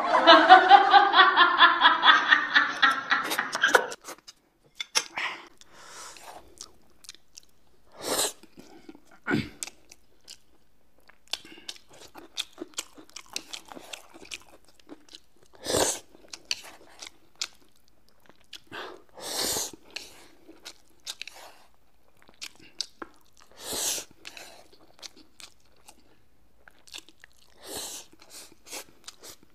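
A man chuckles for the first few seconds, then close-miked eating of rice with tomato and scrambled-egg stir-fry: chewing with small clicks and a handful of louder, brief mouth and crunch noises spread throughout.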